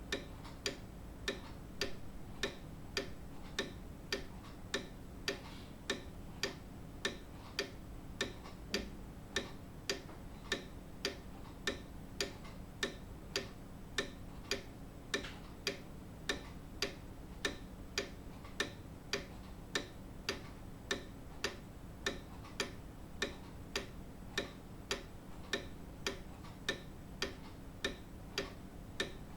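Grandfather clock ticking: a steady, even tick-tock of sharp clicks, about two a second.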